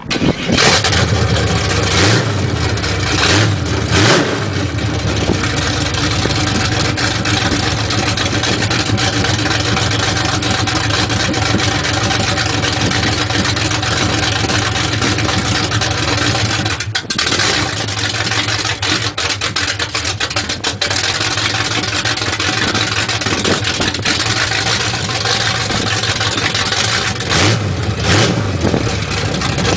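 Exhaust of a 350 small-block V8 with a Comp 280H cam, a Holley 600 carburettor and full-length headers, idling steadily. The throttle is blipped in short revs a few times near the start and again near the end.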